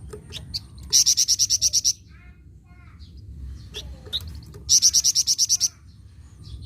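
A flamboyan songbird singing two loud bursts of rapid, evenly repeated high notes, about ten a second and lasting about a second each, with softer chirps in between.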